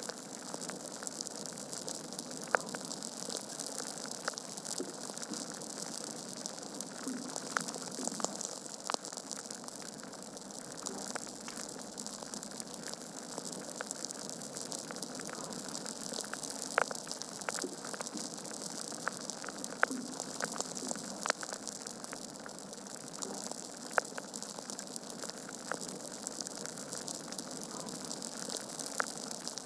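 Wood fire burning in a fireplace: a steady hiss with frequent small crackles and a few sharper pops from the logs.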